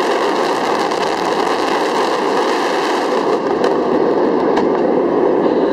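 Dense fireworks barrage, with many shells and fountains bursting and crackling at once so that the reports run together into a loud, steady crackling rumble.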